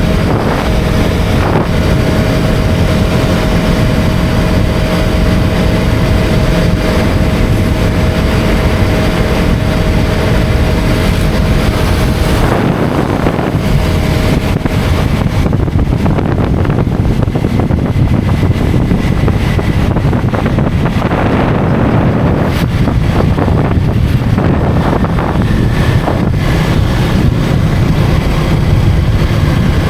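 KTM 250 Duke's single-cylinder engine running as the motorcycle rides along, with heavy wind rush on the microphone. A steady engine note holds for the first twelve seconds or so, then the sound shifts.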